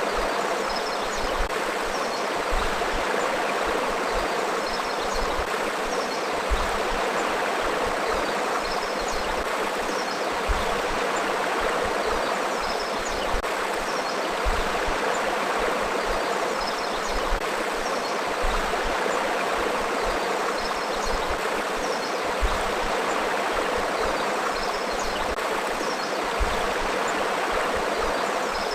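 Forest river flowing, a steady babbling rush of water with faint short high chirps scattered over it.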